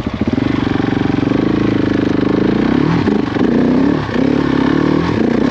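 Motorcycle engine pulling away and accelerating on a sandy trail, with brief drops in level about three and four seconds in.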